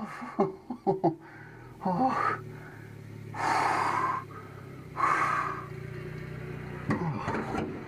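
A man breathing out heavily twice, each breath about a second long, with short vocal sounds before and after: the release of a breath held through the landing.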